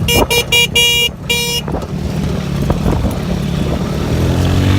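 A vehicle horn beeped in a quick run of short toots ending with a longer one, over the steady running of the vehicle's motor, which rises in pitch near the end as it speeds up.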